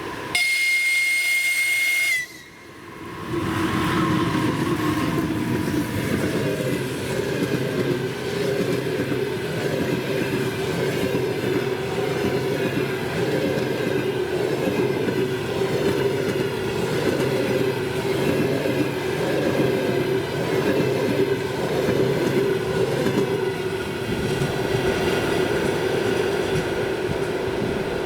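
Twin-unit EP2K electric locomotives give a high-pitched whistle blast lasting about two seconds, then the passenger train passes close by: a steady rolling rumble of wheels on rails with a steady hum.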